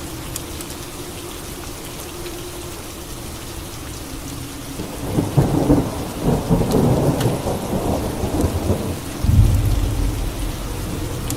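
Steady rain, then a thunderclap about halfway through that crackles for a few seconds and gives way to a deep, low rumble of thunder near the end.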